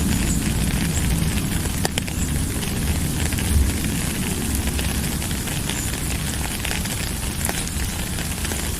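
Steady rain falling, with a low rumble underneath and many small crackling drop hits, one sharper tick about two seconds in.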